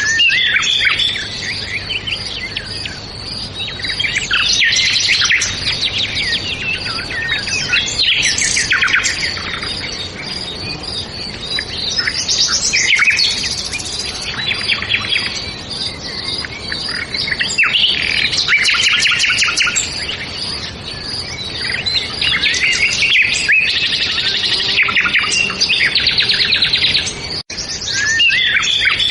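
A chorus of small songbirds chirping and singing, many overlapping calls and trills at once, over a steady background hiss. The sound drops out for a split second near the end.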